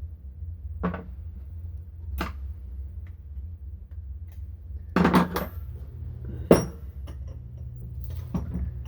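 Metal motorcycle fork parts knocking and clinking as they are handled: a few separate sharp knocks, with a cluster about five seconds in and the loudest knock shortly after, over a steady low hum.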